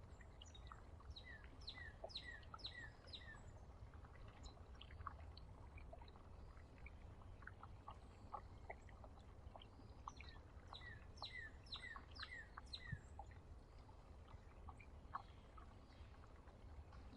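Faint songbird calls: a quick run of five or six repeated slurred notes, given twice, with scattered short chips between, over a steady low rumble.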